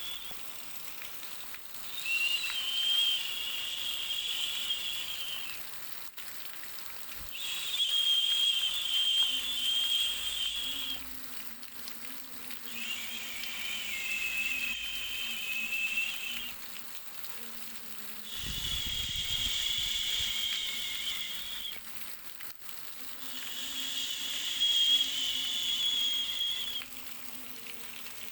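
Baby sleep-sound track: a high, breathy whistling hiss that swells for three to four seconds at a time, then dies back, repeating about every five seconds over a faint steady hiss.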